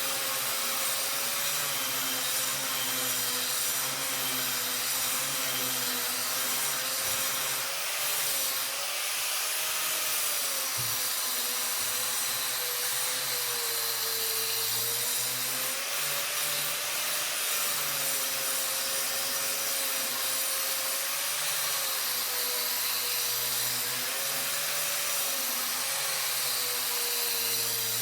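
A power tool's motor running continuously, with a steady hiss and a hum whose pitch wavers slightly as the load changes.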